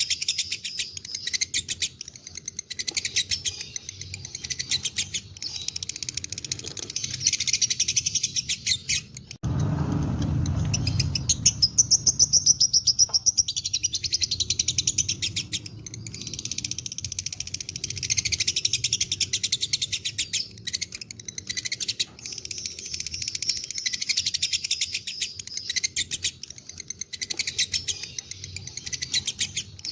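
Lovebird giving long 'ngekek' chattering: rapid, continuous trilled chirps in long runs. About a third of the way in the trilling breaks off abruptly and a low rumble comes in for a few seconds before the chattering resumes.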